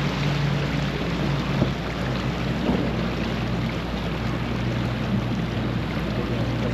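Wind buffeting the microphone and water rushing past the hull of a sailboat under way, with a low steady hum underneath.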